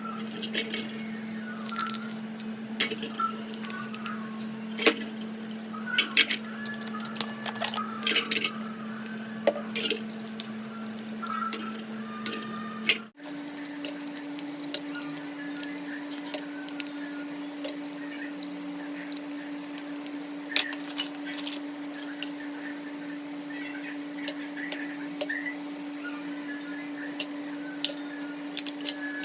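Many small irregular clicks and crackles over a steady hum. The hum jumps slightly higher in pitch at an abrupt cut about 13 seconds in.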